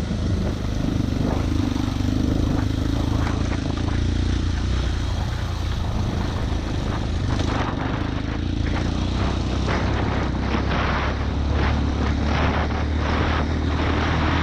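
Off-road vehicle engine running steadily with a low drone, its pitch shifting about seven seconds in, with frequent short knocks through the second half.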